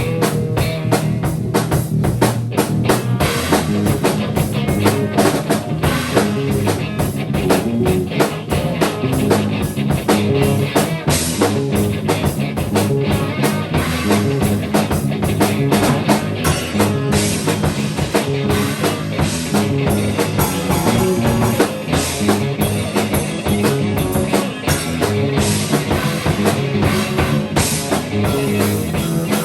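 Live band improvising rock with drum kit, bass and guitar, the drums playing a fast steady beat under repeating pitched lines.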